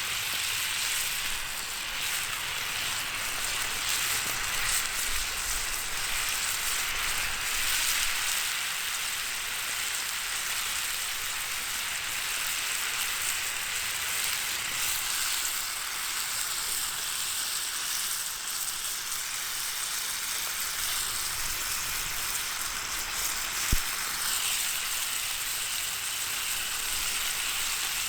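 Food sizzling and frying in a campfire frying pan, a steady hiss, with one sharp crack about 24 seconds in.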